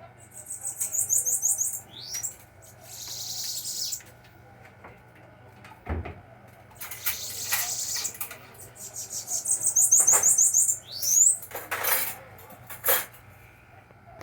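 Bananaquit singing: two high, thin, buzzy trilled phrases, each ending in a quick rising note, with other short high calls between them. A low thump about six seconds in.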